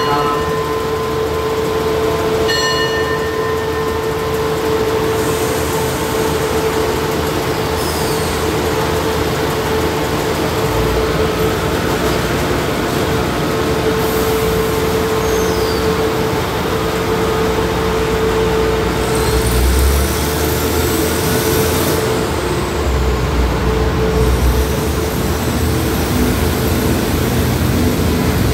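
Passenger train standing at the platform with its diesel engine and generator running, a steady high hum over a low rumble. The rumble swells a few times, about ten seconds in and again near the 20-second mark.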